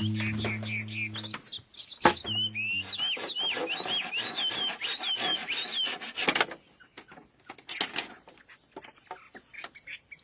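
A bird calling in a quick run of repeated, curving chirps for a few seconds, among scattered light taps and clicks. A low steady hum sounds at the start and cuts off.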